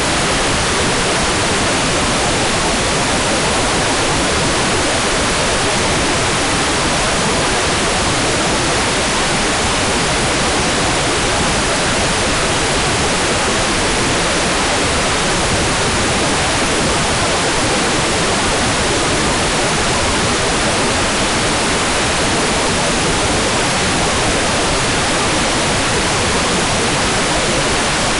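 Hair dryer running steadily: a constant, even rush of air noise with no pauses or changes.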